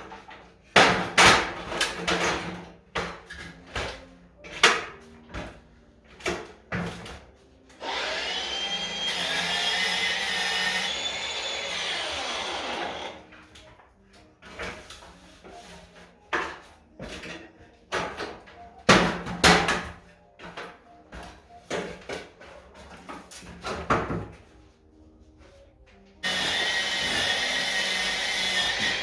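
Renovation work on stone: a run of sharp knocks and clatter, broken twice by a steady whirring power tool, once for about five seconds in the middle and again starting a few seconds before the end.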